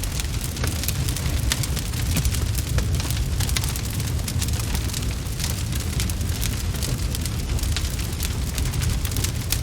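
Wood fire crackling: frequent sharp snaps and pops over a steady low rumble.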